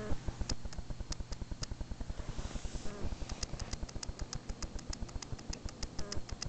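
Weird mechanical noises from the camera: a fast, even low pulsing with a faint steady hum, and sharp high ticks that settle into about six a second from about halfway in.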